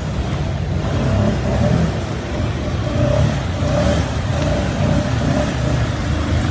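Off-road vehicle engine running and revving up and down, its pitch rising and falling.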